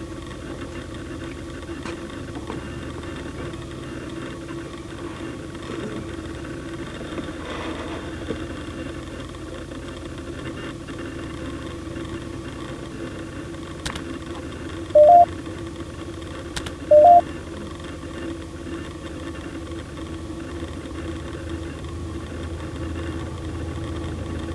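Steady low electronic hum, with two short two-note beeps about two seconds apart past the middle and a couple of faint clicks shortly before them.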